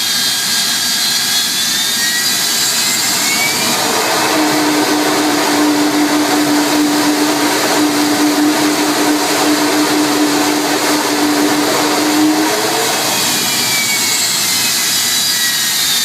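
Avro Vulcan XH558's Rolls-Royce Olympus turbojet running at high power: a loud jet roar with a high whine that shifts in pitch at the start. About four seconds in, the Vulcan howl comes in as a steady low tone over the roar, the sign that the engine is above about 90% throttle. The howl holds for about eight seconds and then stops, and near the end the whine shifts in pitch again as the power comes back down.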